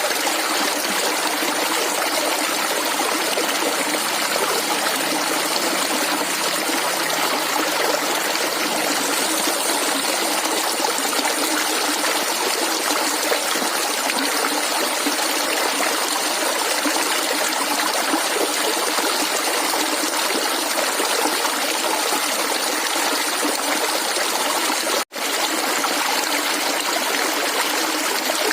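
Clear flowing water gurgling steadily, like a small stream, cutting out for an instant about 25 seconds in.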